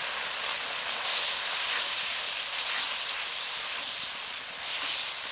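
Spice paste sizzling steadily in hot oil in a pan, a little water just added to it, hissing with steam.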